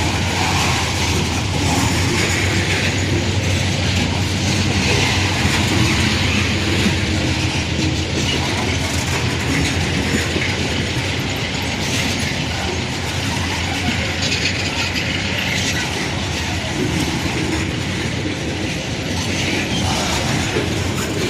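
Freight train cars rolling past, a steady rumble and clatter of wheels on the rails that holds even throughout.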